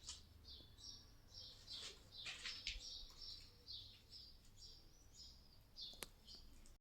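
Faint birds chirping: many short, high calls repeating throughout, with one sharp click about six seconds in.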